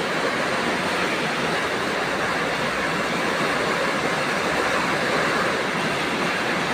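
Heavy rain falling in strong wind, a steady, even rushing noise that holds constant.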